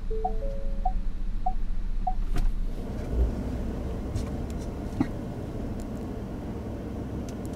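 Ford F-150 parking-sensor warning beeps, short tones about every 0.6 s, sounding while the truck reverses itself into the space and warning of a nearby vehicle. Two longer chime tones sound at the start. The beeps stop with a click about two seconds in, leaving the truck's low engine and tyre noise with a few light clicks.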